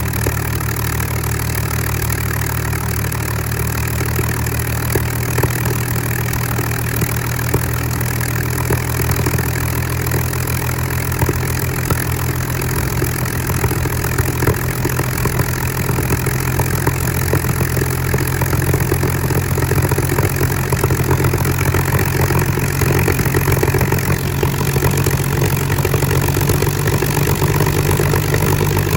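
Supermarine Spitfire Mk XIV's Rolls-Royce Griffon V12 aero engine running steadily on a ground run, growing a little louder about two-thirds of the way in.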